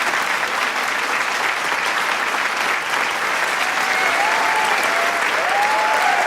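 A large crowd applauding with dense, steady clapping, with a few cheers and shouts rising over it near the end.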